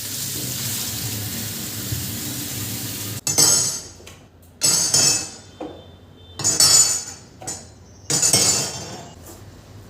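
A water tap runs steadily into a sink and is shut off about three seconds in. Then come four separate clattering bursts of glass and dishes clinking together.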